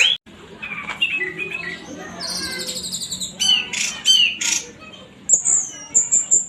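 Orange-headed thrush singing a long, rapid song of varied whistled phrases, quick trills and high chirps, broken by a brief gap just after the start.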